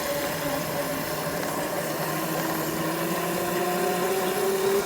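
Small dirt bike engine running under way, its pitch rising slowly and steadily as the bike picks up speed.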